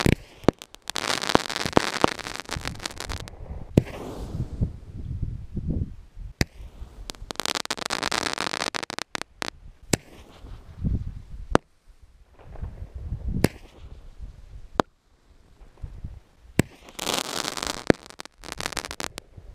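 Aerial consumer fireworks going off: repeated sharp bangs as shots burst, with long stretches of dense crackling from the crackle effects, three main volleys.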